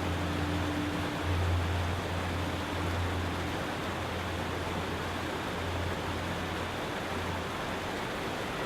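Steady rushing noise like flowing water, with a low hum underneath that swells and fades every second or two.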